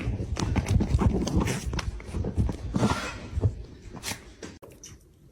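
A dog moving about, with a run of irregular taps and knocks that grow fainter toward the end.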